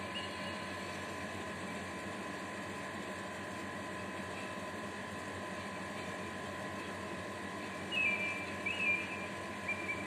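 A small bird giving a few short, sharp chirps that step up and down in pitch, about eight seconds in and again near the end, over a steady hiss with a faint steady high tone.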